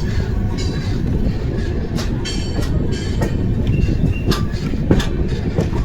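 Amrit Bharat Express passenger train running on the track: a steady low rumble from the coach, with several sharp clicks from the wheels over the rail joints and a brief squeal about four seconds in.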